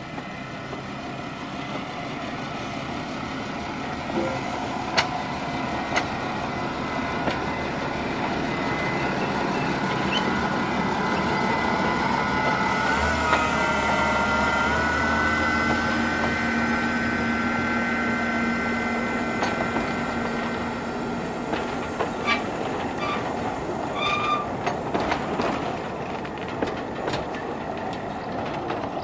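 Narrow-gauge MBxd2 diesel railcar approaching and passing close by, its engine growing louder to a peak about halfway through. Its trailing open carriages then roll past with repeated clicks of the wheels over the rail joints.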